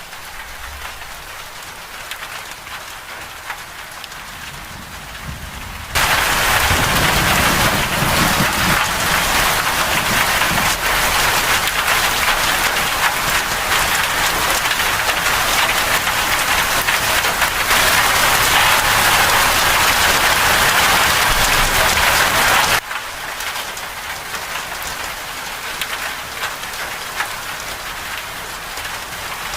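Rain falling steadily, moderate at first, then abruptly much heavier about six seconds in, with a low rumble of thunder shortly after. Near the end it drops suddenly back to the lighter rain.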